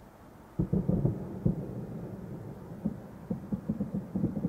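Aerial firework shells bursting: a sudden boom about half a second in, then a rolling run of booms and a string of smaller pops.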